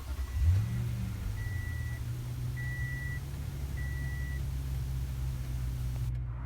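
2016 Toyota Tundra's 5.7-litre V8 catching about half a second in with a brief flare, then idling steadily. A single-tone warning chime beeps four times, about one beep a second, and stops after about four and a half seconds.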